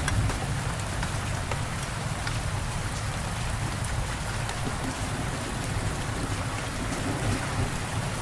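Steady rain falling, with individual drops ticking sharply over the even hiss and a low rumble underneath.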